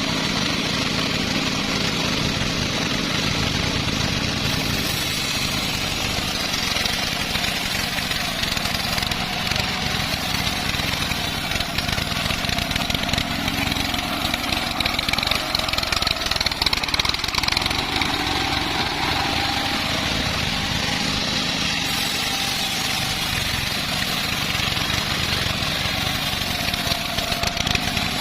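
Engine-driven homemade bandsaw sawmill running steadily while sawing a large teak log, with a faint high whine that strengthens a little midway.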